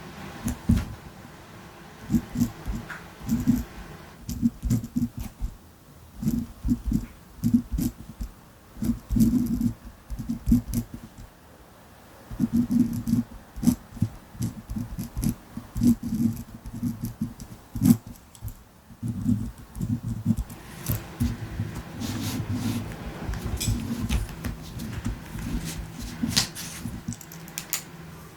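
Ballpoint pen writing on a notebook, in quick irregular strokes in short runs with brief pauses between them.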